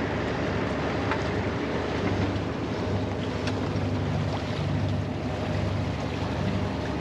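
Sailing yacht under way: a steady rush of wind and water with a low, steady hum beneath it.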